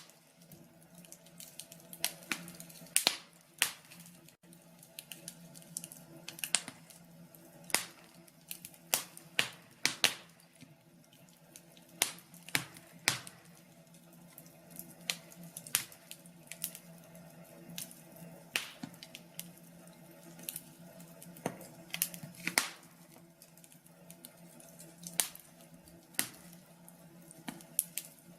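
Wood fire crackling, with irregular sharp pops and snaps, some in quick clusters, over a low steady hum.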